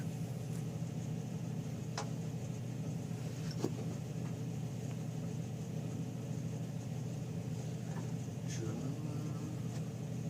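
Steady low hum throughout, with a few light clicks and taps of engine parts and tools being handled during reassembly.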